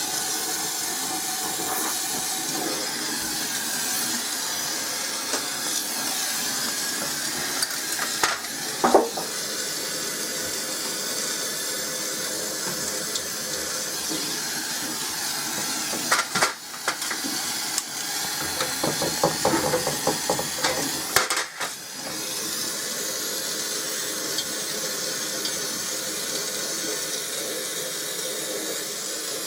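Steady hissing throughout, interrupted by brief knocks and rattles about eight seconds in and again between about sixteen and twenty-one seconds.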